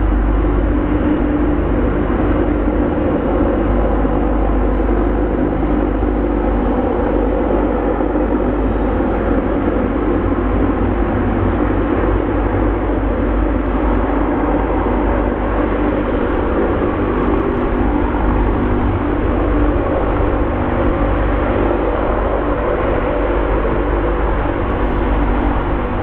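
Aircraft engines making a steady drone, with several held tones over a deep rumble.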